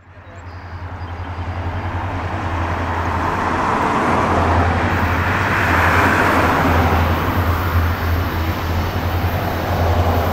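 Diesel freight locomotives approaching under power, their engines giving a steady low drone over the rumble and hiss of the train. The sound rises over the first few seconds, then holds steady.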